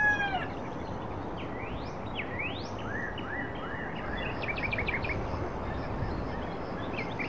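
Birds calling over a steady outdoor background hiss: a few quick rising chirps about two to three seconds in, a short run of rapid repeated notes around five seconds, and a couple more calls near the end.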